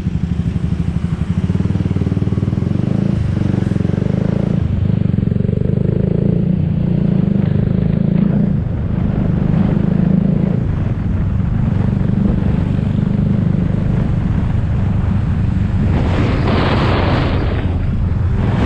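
Small motorbike engine running steadily under way in traffic. A louder rush of noise comes about three-quarters of the way through.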